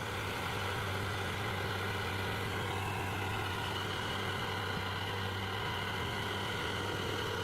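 Stump grinder's engine running at a steady pitch, with a constant low hum.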